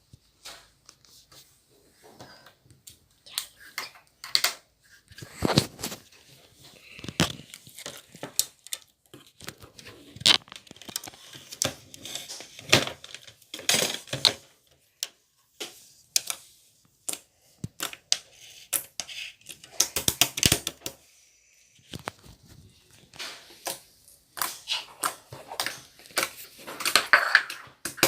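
Hands squeezing, poking and stretching slime, giving irregular sticky clicks, pops and crackles.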